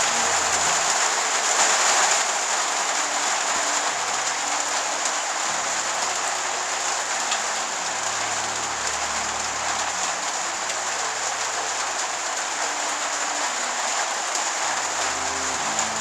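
Steady monsoon rain falling on the roof, an even hiss that holds throughout.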